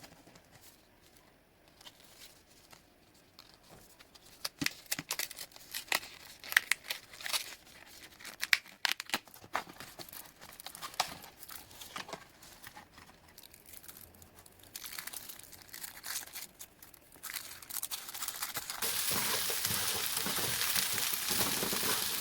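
Irregular crinkling and tearing, like packaging being handled and torn open, then a steady hiss starting near the end.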